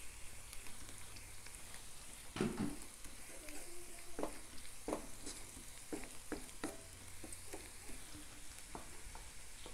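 Sliced onions and turmeric sizzling in hot oil in a nonstick wok, stirred with a wooden spatula that knocks against the pan several times, the loudest knock a couple of seconds in.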